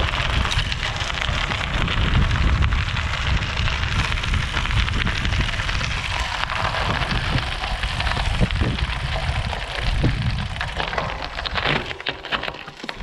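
Bicycle tyres rolling over a gravel road: a continuous crunching crackle of loose stones, with a low rumble underneath. It eases briefly near the end.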